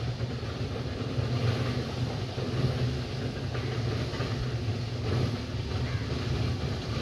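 Low, steady rumble from a distant electric local train on the tracks, with wind buffeting the microphone.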